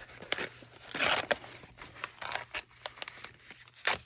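Paper being handled: crinkling and rustling, with a longer rustle about a second in and scattered light ticks and taps, the sharpest near the end.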